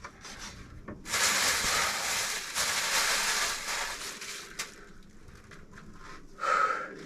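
Rasping scraping noise in two long strokes lasting about four seconds together, then one short scrape near the end.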